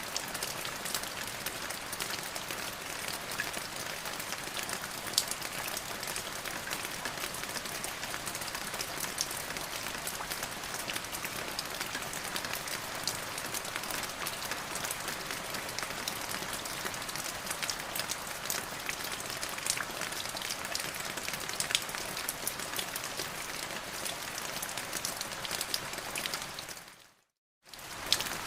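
Steady rain falling, with many sharp individual drop ticks over an even hiss. Near the end it fades quickly to silence for under a second and then comes back.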